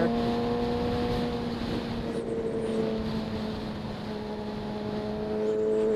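2007 Yamaha YZF-R6's inline-four engine running steadily under way, with wind noise on the microphone. The engine pitch sags a little in the middle and climbs again near the end.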